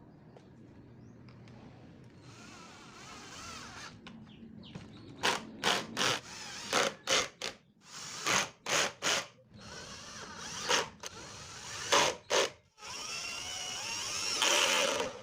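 A power drill running in a string of short trigger bursts, about a dozen of them, with a longer, steadier run near the end that cuts off suddenly.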